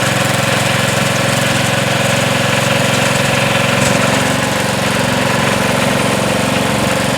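Sears Suburban garden tractor engine running steadily during snow blowing, with an even, unchanging note.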